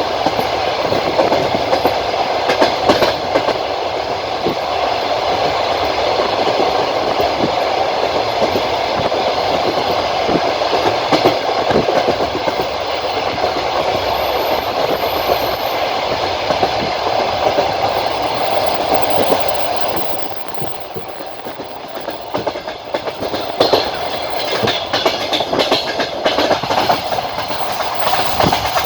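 Passenger train wheels rumbling and clattering over the rail joints, heard from inside a moving carriage. The noise drops quieter for a few seconds about two-thirds of the way through, then returns with sharper clatter.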